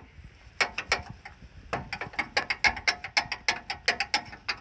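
Milwaukee M18 Fuel half-inch cordless impact wrench hammering on a rusted frame bolt: a rapid run of sharp, rattling blows that starts about half a second in and stops just before the end.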